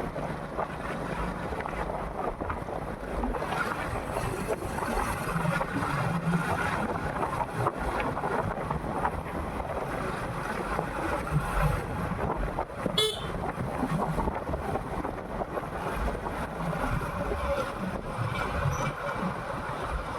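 Motorcycle on the move: a steady rush of wind and road noise over the engine. A brief click about thirteen seconds in.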